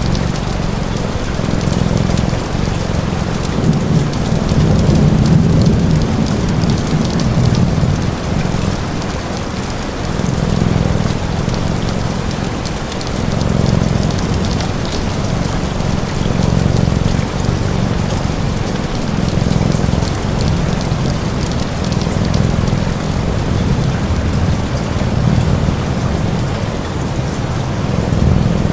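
Steady rain falling, with a deep low rumble underneath that swells and fades every few seconds.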